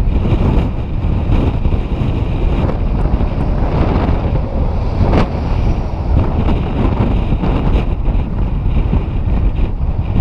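Strong wind buffeting the microphone: a loud, continuous low rumble that flutters with the gusts.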